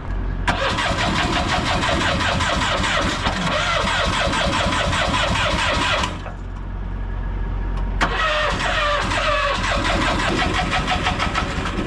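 Starter cranking a cold pony motor, the small auxiliary engine on a heavy-haul trailer, in two long cranks of about five and four seconds with a short pause between. The engine does not catch: it is hard-starting in the cold.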